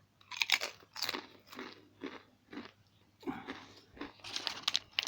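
Someone chewing a mouthful of thick-cut potato chip: a run of crisp crunches, about two a second, coming faster and closer together in the last second or so.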